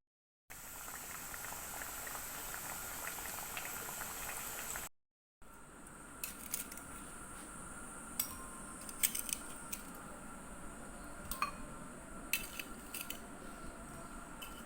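Cassava frying in hot oil, a steady sizzle with fine crackles. After a cut about five seconds in, it turns quieter, with scattered clinks and taps of a utensil against dishes.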